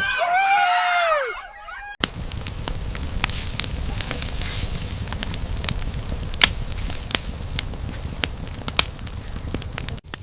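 Wood campfire crackling, a steady low rush with scattered sharp pops and snaps. It is preceded in the first two seconds by a loud sound with sliding, wavering pitches, which cuts off abruptly.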